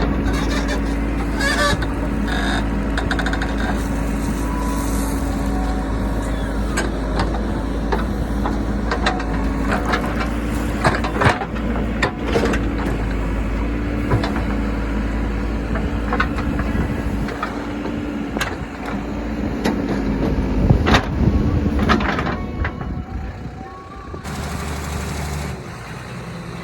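A JCB backhoe loader's diesel engine runs steadily under work, with scattered knocks and clatters that grow louder about twenty seconds in. The engine note drops away a few seconds before the end.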